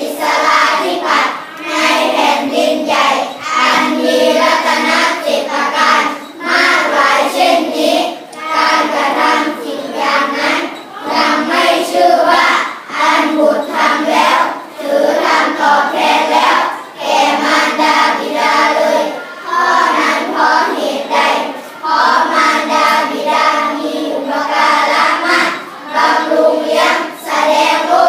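A group of children chanting a Buddhist sutta in unison, in steady rhythmic phrases with brief pauses for breath between them.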